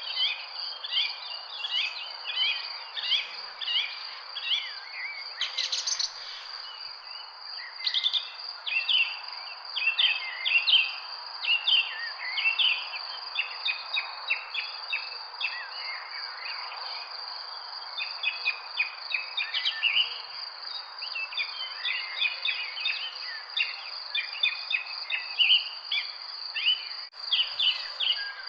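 Many small birds chirping busily, dense short falling notes one after another, over a steady high-pitched insect drone.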